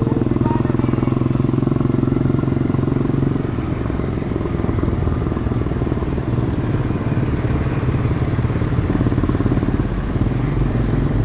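Demak DTM 150 motorcycle's single-cylinder engine running through its stock exhaust while riding. The steady engine note eases off about three and a half seconds in, then carries on lower.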